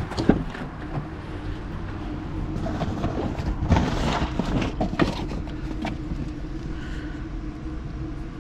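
Van engine idling with a steady low hum, with a few scattered knocks and scuffs near the start and again around the middle.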